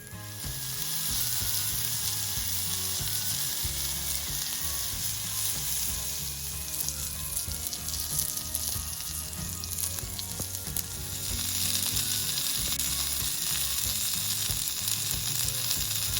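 Food frying on a hot pan over a campfire: a steady sizzle, a little louder in the second half.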